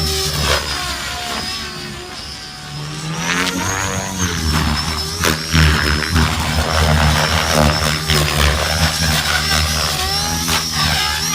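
Synergy 696 electric RC helicopter in hard flight: a steady high motor whine over the pulsing beat of the rotor blades, both rising and falling in pitch as it manoeuvres.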